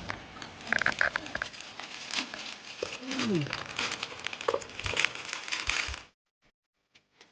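Crackling, rustling handling noise with many sharp clicks and a few short voice-like sounds, cutting off suddenly about six seconds in.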